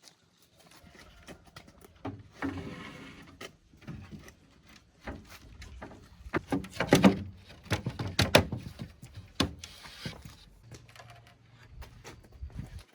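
Irregular knocks, thuds and clatter, most of them between about six and ten seconds in, with a short rustling scrape about two and a half seconds in.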